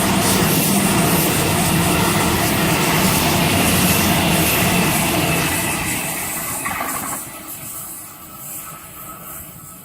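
Sydney Trains Waratah (A set) double-deck electric train, set A34, running through the platform at speed without stopping: a loud steady rush of wheels and motors that fades as it moves away about seven seconds in.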